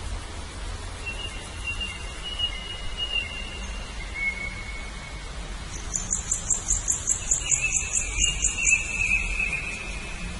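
Birds calling over a steady background hiss: long thin whistled notes, and in the second half a fast high trill of about five notes a second.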